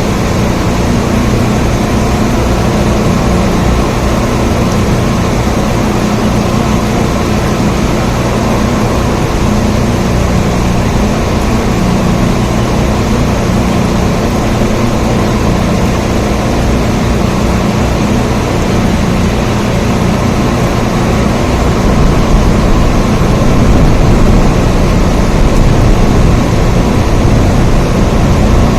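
Steady, loud rain with a deep rumble underneath, growing a little louder about three quarters of the way through.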